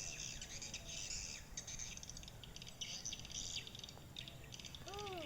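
Swiftlet calls, a dense, continuous high twittering, played from a phone speaker as a lure for swiftlets. A single lower arched bird call sounds near the end.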